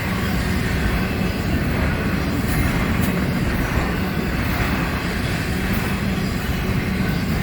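Florida East Coast container freight train rolling past close by: a loud, steady rumble of wheels on rail with a constant low hum underneath.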